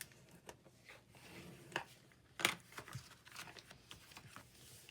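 Paper being handled and folded: soft rustling with a few sharp clicks and crisp snaps, the loudest about two and a half seconds in.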